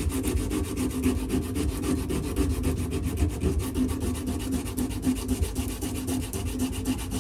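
Dremel rotary tool sanding a wooden knife handle: a steady motor hum with a fast, even grinding rasp against the wood that runs without a break.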